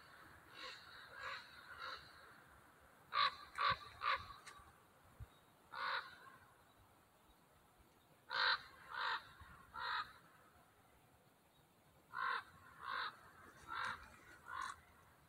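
A bird calling repeatedly: a few faint calls at first, then loud calls in groups of two to four, each call about half a second apart.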